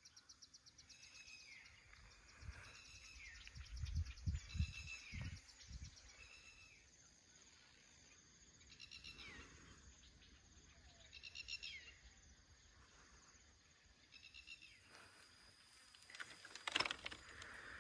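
Forest ambience: a bird calling again and again, each call a short note that falls in pitch, over a faint high insect buzz. Low thumps come about four seconds in, and a brief rustling burst comes near the end.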